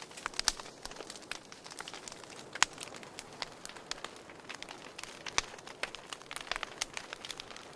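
Burning firewood crackling, with frequent irregular pops and snaps over a soft hiss and one louder pop about two and a half seconds in.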